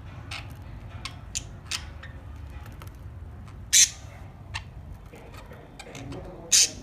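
Budgerigars calling: a few short sharp chirps in the first two seconds, then two loud harsh squawks, one near the middle and one near the end.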